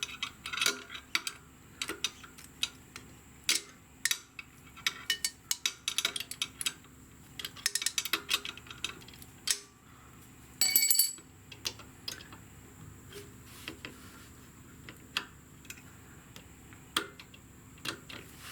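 Hand tools working on a motorcycle's rear brake pedal linkage, giving irregular metallic clicks and clinks as the adjustment is tightened. There is a quick run of clicks about eight seconds in and a louder ringing metal clank near eleven seconds, then occasional clicks over a faint steady hum.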